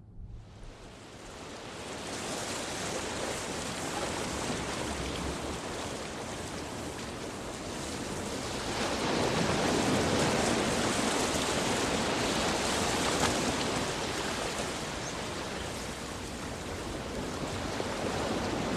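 Ocean surf, a steady rushing wash that starts suddenly, swells about halfway through and eases a little near the end.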